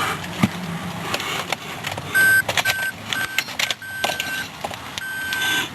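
A string of high electronic beeps of uneven length, mixed with scattered clicks, from a car being jump-started on a dead battery.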